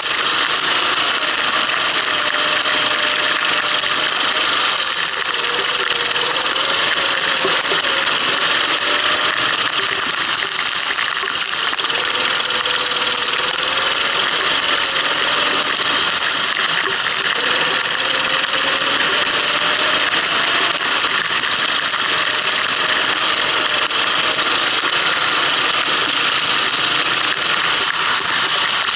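Kart engine running on track, its pitch rising and falling gently every few seconds as the kart speeds up and slows, under a steady loud hiss of wind and wet-track spray.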